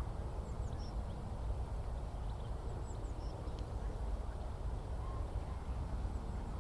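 Outdoor ambience: a steady low rumble carries throughout, with faint, scattered high chirps of small birds over it.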